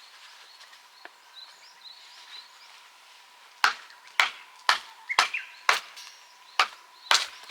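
Firewood being chopped or split with sharp, cracking blows, about two a second, starting about halfway through; faint bird chirps before the blows start.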